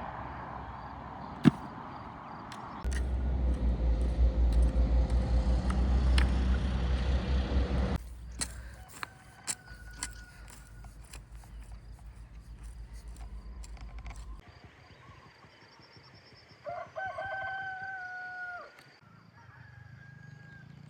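A rooster crows once, about two seconds long, near the end. Earlier, a loud low rumbling noise with a fast pulse runs for several seconds, then drops to a quieter low pulsing that stops before the crow.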